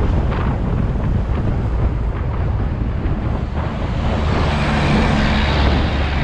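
Wind buffeting the microphone of a moving bicycle, mixed with the noise of highway traffic. The traffic grows louder from about four seconds in.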